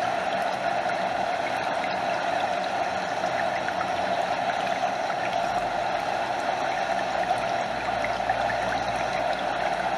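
Stream water flowing and cascading over a small waterfall, a steady, unbroken rushing.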